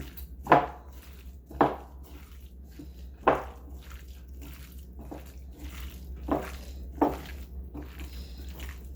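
Gloved hands mixing raw diced chicken with seasonings and garlic paste in a bowl: a series of short wet squishing slaps, the loudest in the first three and a half seconds, over a steady low hum.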